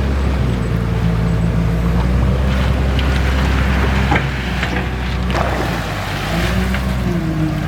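Backhoe loader's diesel engine running steadily, with water noise and a few short knocks about four and five seconds in.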